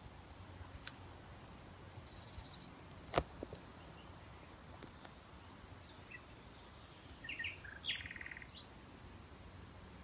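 Faint songbird calls from a thicket. There is a quick run of high notes about five seconds in, and a louder burst of chirps ending in a fast rattle near eight seconds. A single sharp click about three seconds in is the loudest sound.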